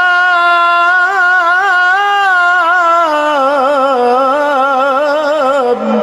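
A male Quran reciter's voice drawing out one long melodic note of tajweed recitation, ornamented with quick wavering trills. It steps down in pitch about halfway through and settles lower near the end.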